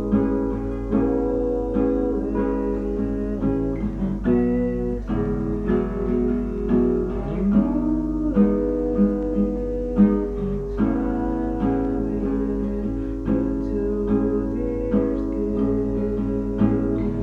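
Guitar playing a melodic part with plucked and strummed notes, over a steady low hum.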